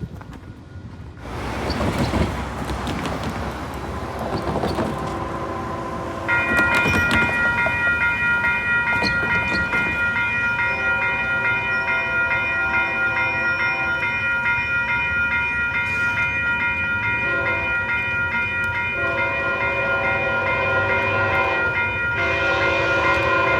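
CPKC train approaching: its rumble builds, a bell starts ringing steadily about six seconds in, and the locomotive horn sounds several long blasts over it.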